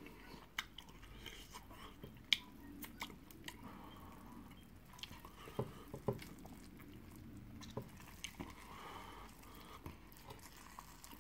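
Faint chewing of egusi soup and meat eaten by hand, broken by scattered small clicks, the sharpest about two seconds in.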